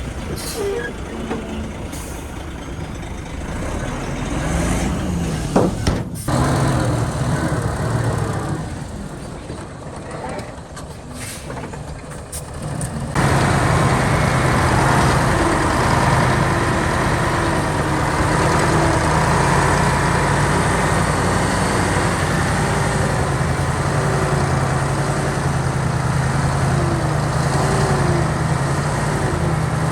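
Heavy diesel earthmoving machinery running, its engine sound rising and falling, with a sharp knock about six seconds in. About thirteen seconds in the sound switches abruptly to a louder, steady engine note.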